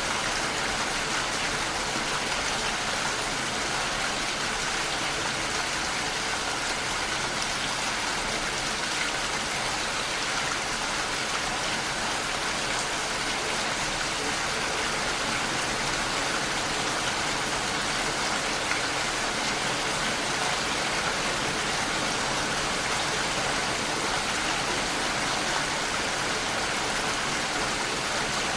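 Steady rain falling against a window pane, an even, continuous hiss of rain with no single drops standing out.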